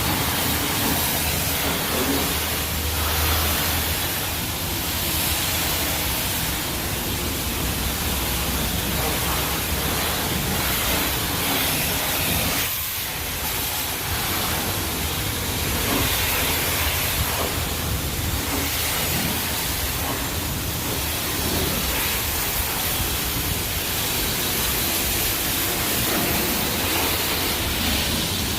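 Water spraying onto a car during a wash: a steady, loud hiss with a low hum underneath.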